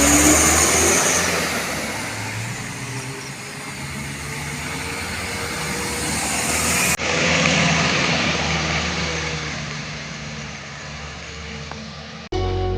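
Truck engine running on a dirt road, swelling and fading twice.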